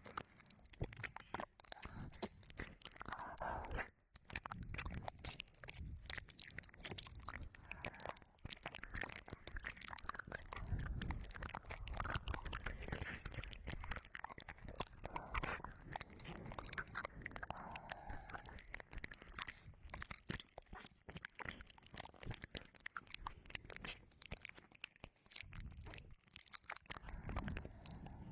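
Wet mouth sounds and licking close on a binaural ear microphone: a dense, irregular run of clicks, smacks and slurps, with a brief pause about four seconds in.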